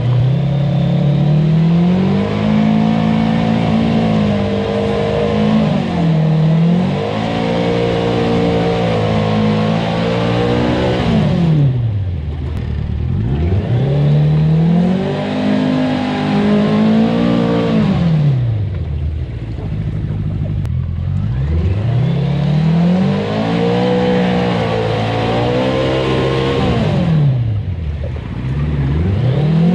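Homemade four-wheel-drive trophy truck's engine revving hard and falling back over and over as it is driven through a mud puddle. It drops to low revs about twelve, nineteen and twenty-eight seconds in, then climbs again each time.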